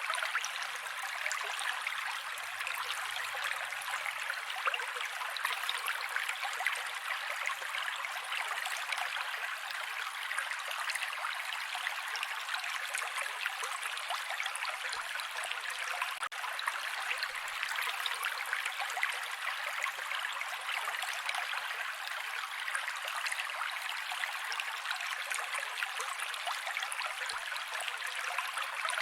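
Mountain creek water running over rocks in a steady, even rush and babble, with almost no low rumble.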